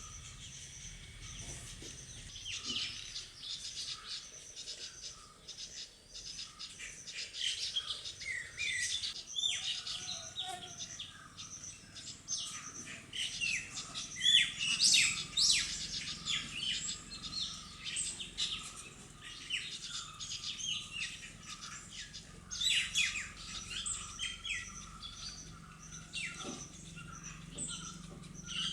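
Birds chirping and calling: many quick high chirps and short twittering sweeps, busiest in the middle and again near the end.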